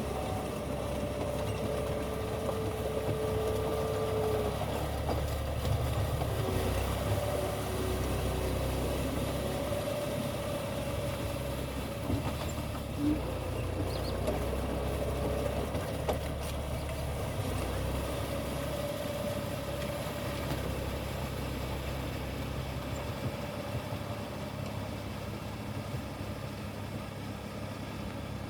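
Tractor engine running steadily at low revs, with a low rumble and a faint wavering whine.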